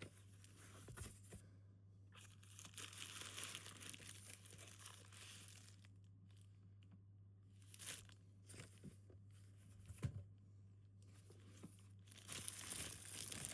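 Faint rustling and crinkling of paper and plastic packaging being handled, with a few light clicks and taps, over a low steady hum.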